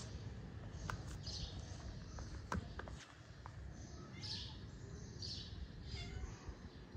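Birds chirping in short, high chirps about once a second, over a steady low background hum, with a few sharp clicks; the loudest click comes about two and a half seconds in.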